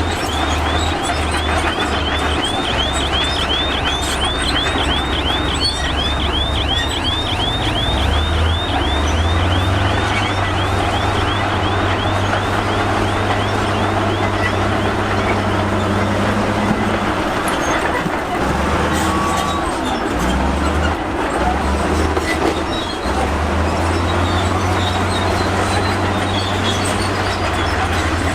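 Diesel engine of heavy earthmoving machinery running, its low drone swelling and easing off with the load. A rapid train of high, squeaky chirps, several a second, runs through the first half and then stops.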